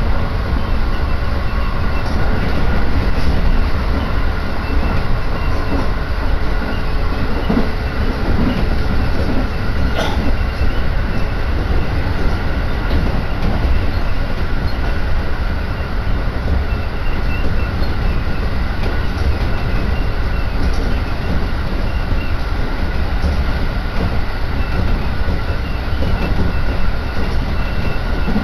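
Running noise inside a moving Tokaido Line electric train: a steady low rumble of wheels on rail, with faint steady tones above it. A single sharp click comes about ten seconds in.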